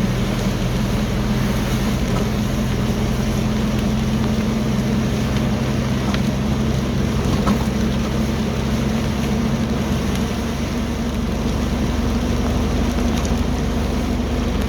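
Steady engine hum and road noise inside a moving vehicle, its tyres running on a rain-soaked road. One of the low hum notes drops out about two-thirds of the way through.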